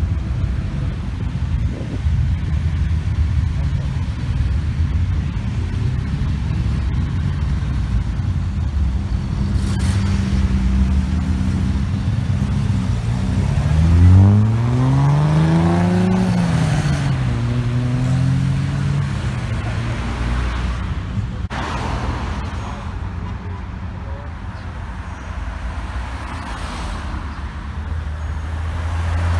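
Car engines idling with a low, steady rumble. About halfway through, one car revs and accelerates away, its engine note climbing, then dropping back and levelling off.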